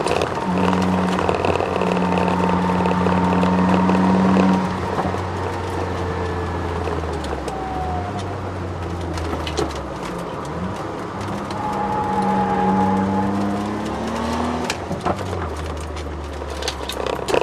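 Twin-turbo Ford Sierra XR4x4 engine heard from inside the cabin on track, pulling hard under full throttle, then lifting off about four seconds in. It drops away for braking and climbs again in a second hard pull before lifting near the end. There is a whine through it, which the owner puts down to the solid differential mount, and short knocks and rattles from the cabin.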